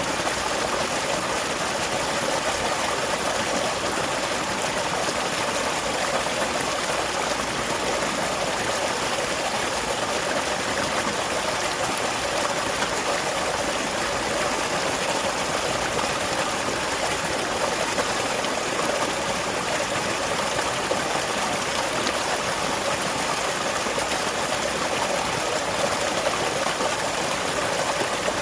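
Small waterfall splashing and pouring steadily into a stream, an even rushing of water with no breaks.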